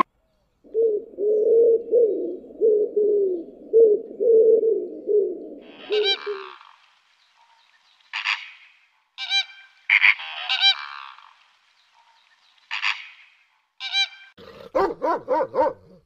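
Mourning doves cooing, a low coo repeated for about six seconds. Then a little egret gives scattered short calls over several seconds, and a dog starts barking quickly near the end.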